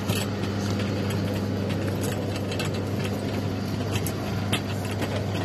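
Steady cabin noise of a Learjet private jet: a low engine drone under an even rush of air noise, with a few small clicks.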